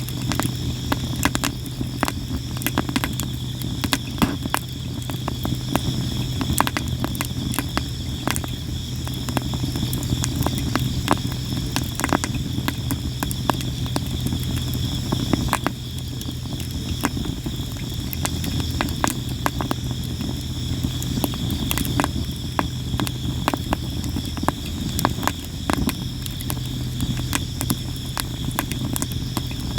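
Sawara cypress wood burning in a campfire, crackling and popping constantly with many sharp snaps, over steady insect chirring and a low steady rumble.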